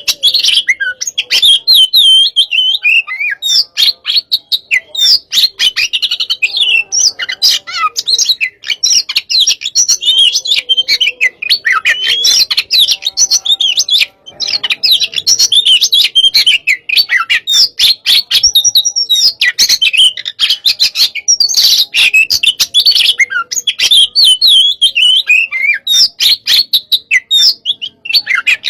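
Oriental magpie-robin (kacer) singing loudly and almost without a break, in the fast, aggressive 'hot' style. Varied twisting whistles run together with rapid chattering and sharp clicks. The song pauses briefly about halfway through and again near the end.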